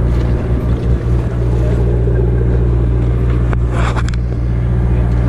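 Sportfishing boat's engine running with a steady low drone, and a short burst of hiss about four seconds in.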